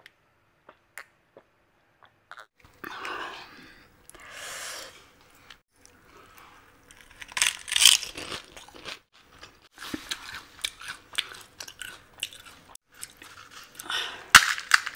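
Close-miked eating of pani puri: crisp fried puri shells crunching and being chewed, loudest around the middle, with a sharp crack near the end.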